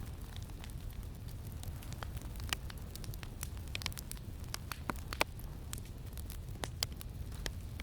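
Campfire crackling, with irregular sharp pops and snaps over a steady low wind rumble.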